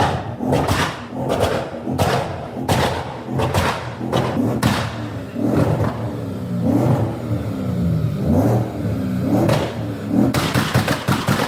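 A modified car's engine being revved hard over and over, with a string of sharp bangs through the first few seconds, then revs rising and falling in repeated blips.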